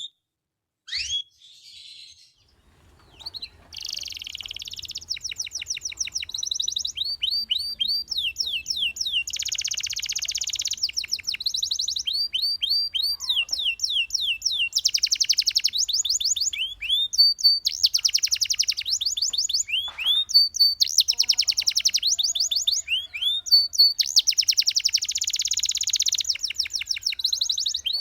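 A canary singing: a few scattered single chirps, then from about three seconds in a continuous song of fast trills of repeated high downward-sweeping notes alternating with dense rolling phrases.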